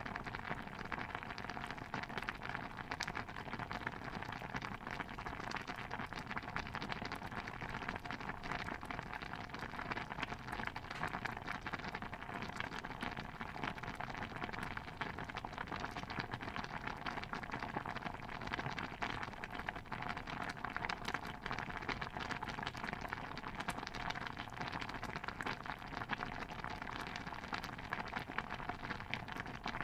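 Steady, dense patter of many small pops and crackles from a layered kitchen ambience soundscape, even throughout with no single event standing out.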